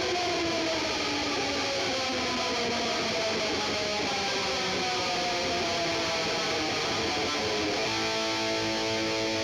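Distorted electric guitar music, with a long, slow downward pitch slide that settles into a steady held chord near the end.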